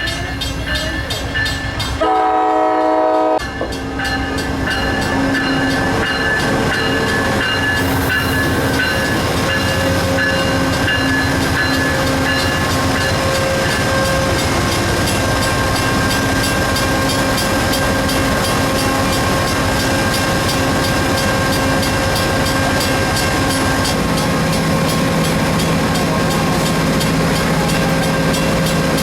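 A train sounds its horn in one blast of about a second and a half, about two seconds in. It then runs past steadily, its wheels clattering rapidly on the rails.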